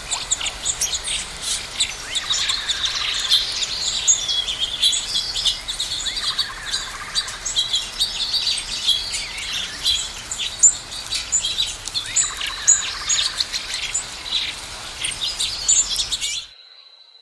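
A dense chorus of many small birds chirping and singing at once, with short overlapping chirps and trills. It cuts off suddenly near the end, leaving a faint steady high whine.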